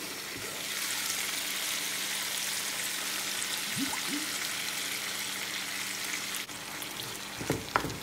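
Green beans frying in a hot skillet, sizzling as soy-based teriyaki sauce is poured over them; the steady sizzle gets louder about a second in. A few clinks of a utensil against the pan near the end.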